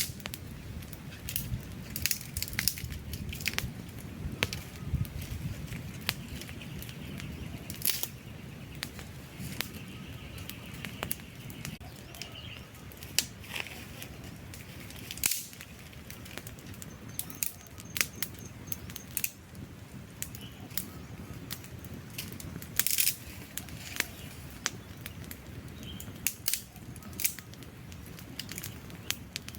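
Campfire burning: wood crackling and popping in irregular sharp snaps over a low, steady rumble of flames.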